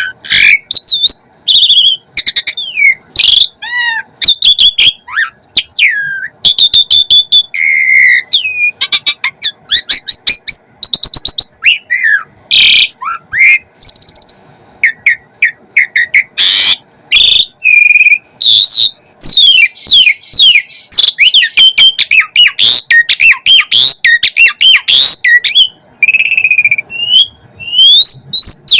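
Asian pied starling (jalak suren) singing a rapid, varied song of gliding whistles, chirps and short harsh notes, one phrase after another with brief gaps, packed with fill-in phrases.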